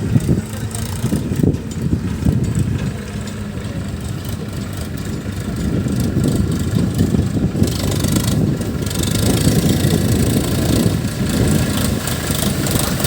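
Heavy diesel engine running steadily, the rumble growing louder from about halfway through.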